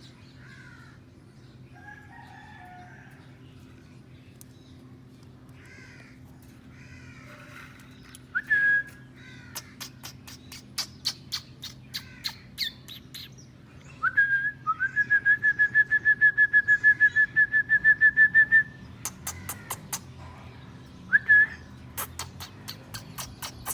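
Pet parakeets (rose-ringed and Alexandrine) vocalising: soft chattering at first, then a loud call, runs of sharp clicks and taps, and a long rapid trilled call of about seven notes a second lasting around four seconds. Near the end come more sharp clicks and a short loud call.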